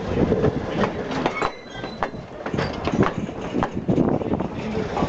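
Strasburg Rail Road passenger train rolling past, its wheels clicking and clacking irregularly over the rail joints, with a few brief faint high squeals.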